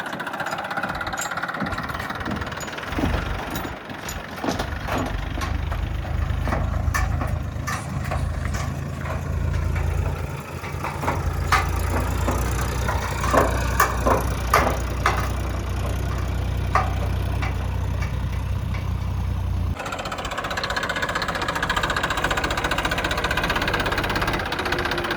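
Tractor engine running steadily, with scattered clicks and knocks over it. The sound changes abruptly about twenty seconds in.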